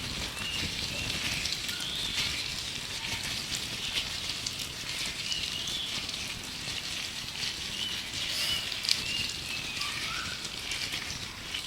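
Gloves being rubbed and crinkled close to the microphone, a dense crackling rustle with small clicks, over a background of birds chirping in many short repeated calls.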